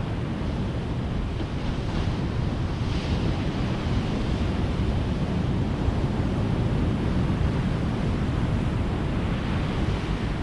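Ocean surf: waves breaking and washing up a beach in a steady wash of noise, with brighter hissing swells about two to three seconds in and again near the end.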